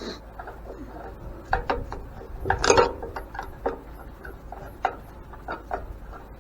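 A screwdriver scraping and clicking against a worn, partly broken screw head on an old cast-metal grain mill, in a run of short, uneven strokes. The loudest cluster comes just under three seconds in.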